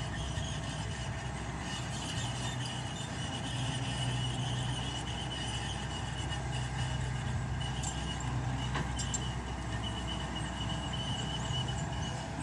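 Mitsubishi BD2G bulldozer's diesel engine running steadily while it works, with a steady high-pitched whine over the engine.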